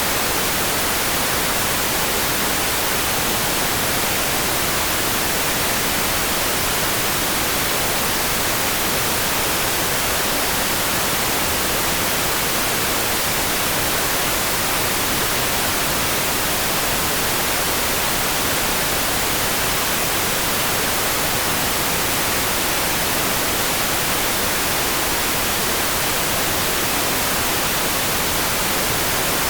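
Steady, unchanging rain hiss for sleep, even from low to very high pitches, with no separate drops or thunder standing out.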